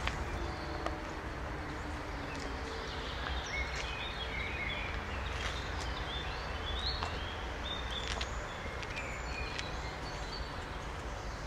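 Songbird singing short high chirping phrases in the trees, from about three seconds in, over a steady low outdoor rumble.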